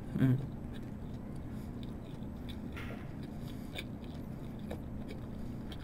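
Close-miked chewing of a soft cheese toast: quiet wet mouth clicks scattered through, with a short hum from the eater just after the start.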